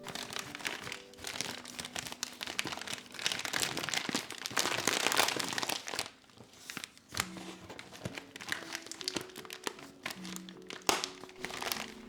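Crinkling and rustling of something being handled, dense for the first half and loudest about five seconds in, then giving way to scattered light clicks and one sharp knock near the end. Soft background music plays underneath.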